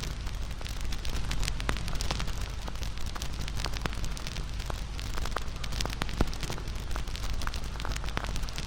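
Wood fire burning, crackling steadily with frequent sharp pops, one louder pop about six seconds in.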